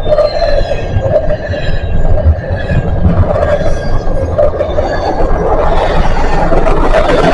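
Norfolk Southern freight train's cars rolling past, a loud steady rumble of steel wheels on the rails with faint high metallic squeals over it.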